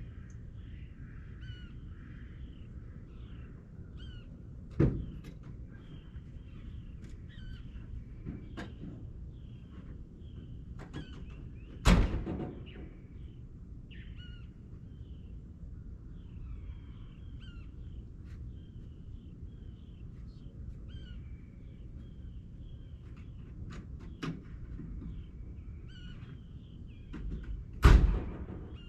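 Small birds chirping and calling continuously. Three sharp, loud bangs stand out: one about five seconds in, one about twelve seconds in, and one near the end, with a few fainter clicks between them.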